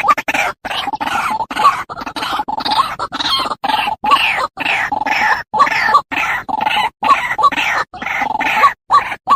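Rapid, repeated animal calls, many falling in pitch, cut by frequent abrupt silences.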